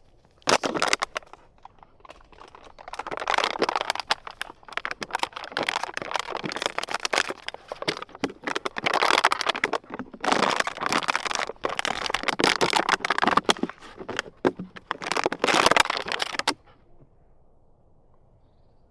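Crackling, crunching rustle in several bursts over about sixteen seconds, then it stops.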